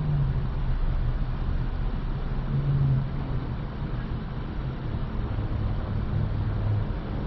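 Car engine running at low speed with a steady low rumble, heard from inside the car; its low hum shifts in pitch a few times.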